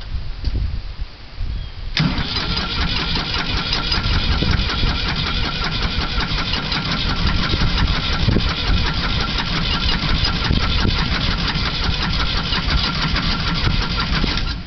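Old Ford diesel tractor engine being started after sitting a few days, hard to start. A sudden loud onset comes about two seconds in, then steady engine noise that cuts off abruptly at the end.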